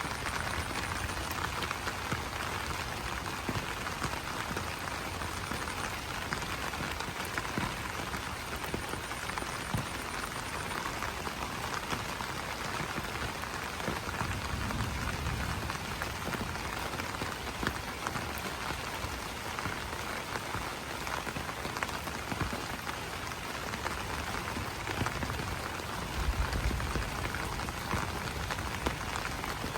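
Steady rain falling on banana leaves: a dense, even patter of drops striking the broad leaves. A low swell comes in around the middle and again near the end.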